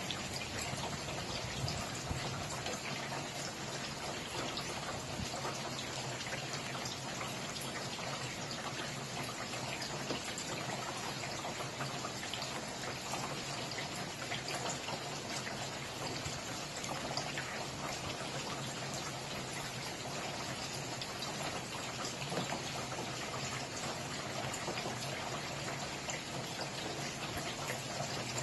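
Steady rain falling, with many small drops pattering in a dense, even hiss.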